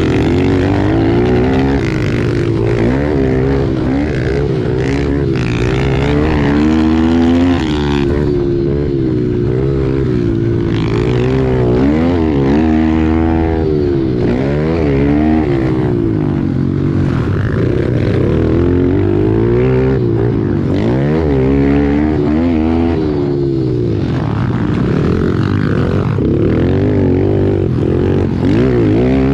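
Pit bike engine racing, its pitch climbing and dropping again and again as the throttle is opened and shut.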